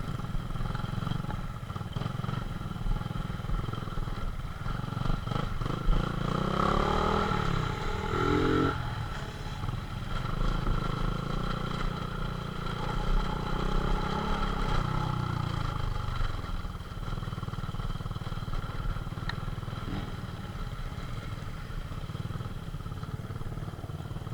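Small motorcycle engines running while riding off-road, revving up and down: the engine pitch rises about six seconds in and again rises and falls a few seconds later, over a steady low rumble.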